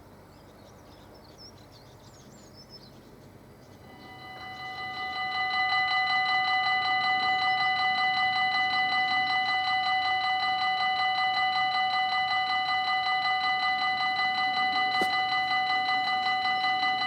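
Belgian level crossing warning bell starts ringing about four seconds in. It swells over a second or so, then holds a steady, fast, high ring, signalling that a train is approaching.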